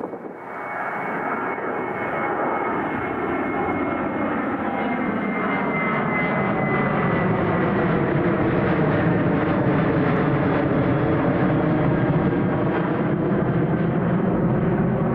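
Boeing 737-700's CFM56-7B turbofan jet engines at departure power, swelling in over the first two seconds into a steady loud roar. Whining tones within it glide down in pitch as the jet passes.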